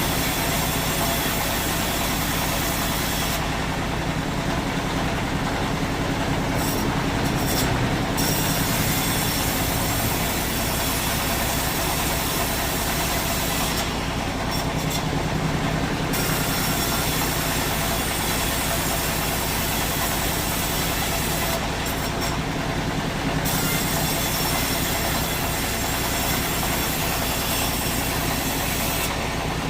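Sawmill machinery running: a steady engine hum under a broad rushing noise. The high hiss drops out briefly about every seven seconds.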